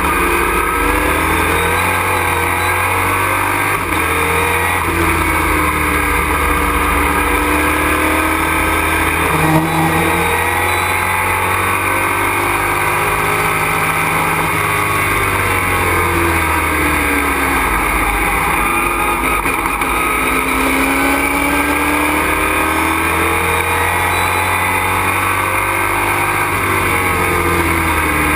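Race truck's engine heard from inside the cockpit at racing speed, its note rising and falling several times as the revs climb and drop, over a steady rumble of road and drivetrain noise.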